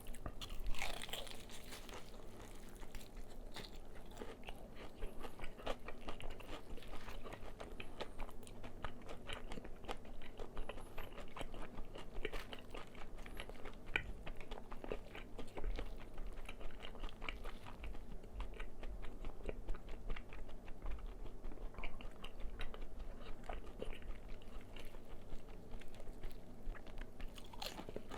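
Close-miked chewing and crunching of crispy fried chicken: a steady stream of small crackling crunches as the fried batter breaks, with a louder bite about a second in.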